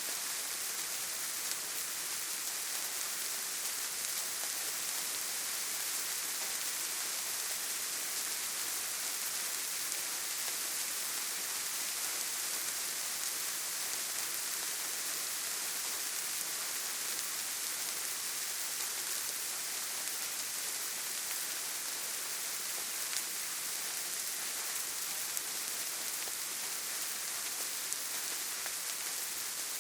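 Steady rain falling: an even, high hiss with a few slightly louder drops now and then.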